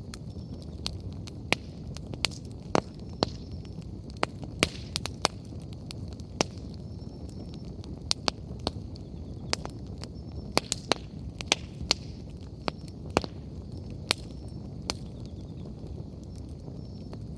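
Wood bonfire crackling, with irregular sharp pops of burning firewood, some in quick clusters, over a low steady rumble of the flames.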